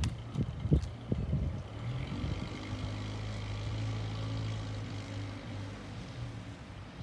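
Mail truck's engine running as it draws near, a steady low hum that swells to its loudest about four seconds in and then fades. Irregular low thumps come in the first second.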